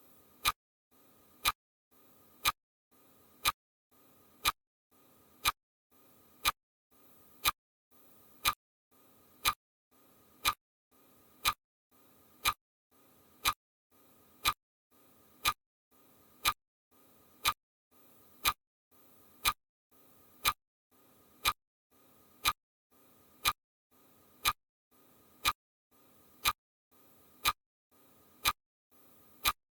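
Steady ticking: one sharp tick every second, evenly spaced, over a faint hiss.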